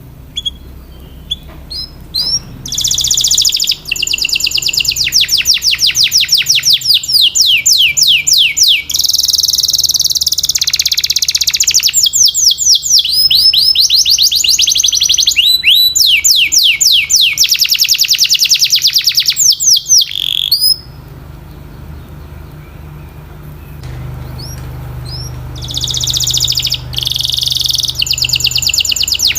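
Canary singing: a few single chirps, then long, fast rolling trills of rapidly repeated high notes. The song breaks off for a few seconds about two-thirds of the way through and starts again near the end.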